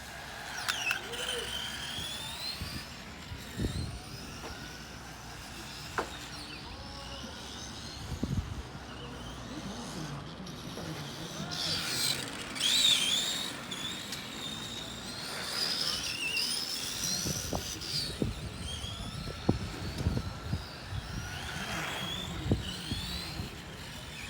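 Several Tamiya Euro RC trucks racing on their stock electric motors, whining up and down in pitch as they accelerate and brake, with tyre squeal and scattered sharp knocks. The whining is busiest about halfway through.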